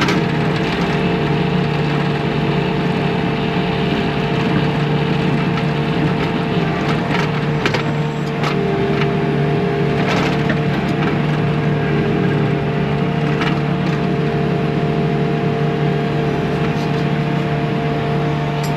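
Bobcat T630 compact track loader's diesel engine running steadily under load, with a steady whine over the engine note and a few short knocks and scrapes partway through.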